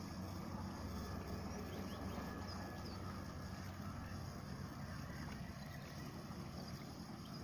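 A steady low motor-like rumble with a few faint, brief high chirps above it.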